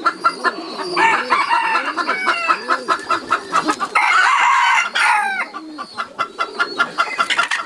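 Chickens clucking, with a rooster crowing about four seconds in.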